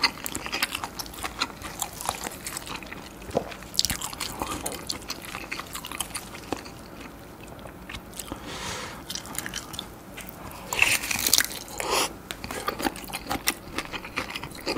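Close-up chewing and biting of grilled lobster tail meat dipped in a thick sauce: soft wet mouth sounds with many small clicks, and a few louder bursts about four seconds in and again about eleven seconds in.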